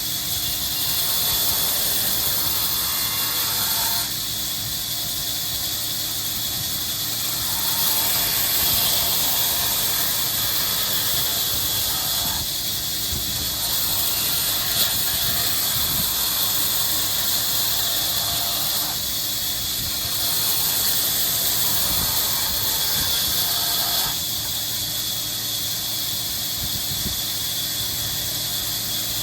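Workshop machinery running with a steady high hiss, stepping up and down in level every few seconds.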